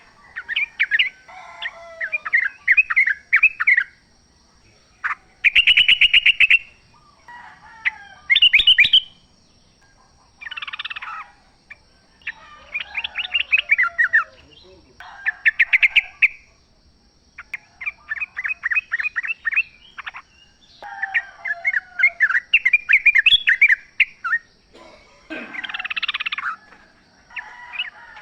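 Yellow-vented bulbul (trucukan) singing: a series of short phrases of rapid repeated notes, each a second or two long, separated by brief pauses.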